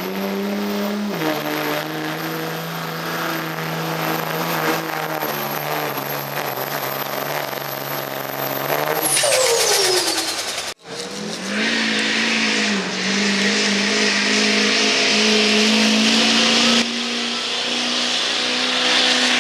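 Diesel pickup engine under full load pulling a sled, with a high steady whistle from the turbocharger. About nine seconds in, the engine note and whistle wind down as the throttle is let off. After a sudden break, another diesel pickup pulls with its engine running hard and steady.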